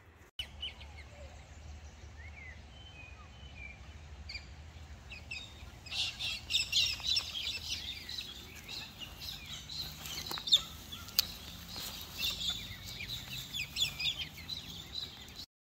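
Small birds chirping and calling outdoors, thickest from about six seconds in, over a faint low rumble, with a sharp click a little after the middle that is the loudest moment. The sound cuts off just before the end.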